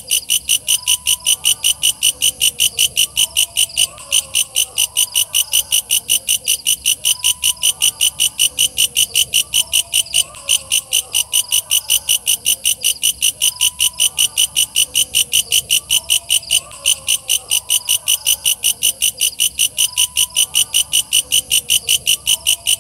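Walang kecek bush cricket calling: a loud, high, rasping chirp repeated steadily at about four pulses a second, with faint lower warbling calls underneath.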